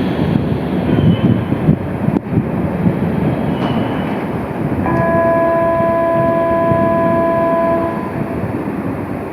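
Tram running along street track, a steady rail rumble throughout. About five seconds in, a steady horn tone sounds for about three seconds over it.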